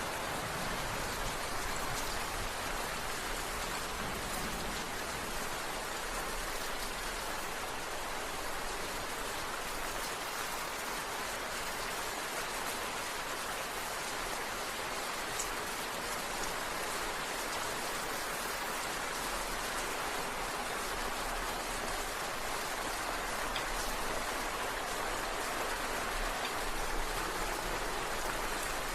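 Steady rain falling, an even, dense hiss of drops with no breaks.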